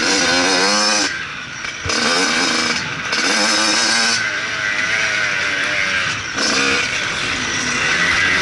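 Motocross bike engine revving hard, its pitch rising and falling with the throttle. The throttle is chopped off briefly about a second in and again near six seconds in.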